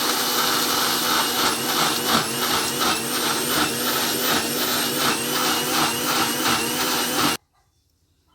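Electric mixer grinder running at speed, blending beetroot and carrot into juice; a steady motor whine over the churning of the jar, stopping abruptly near the end.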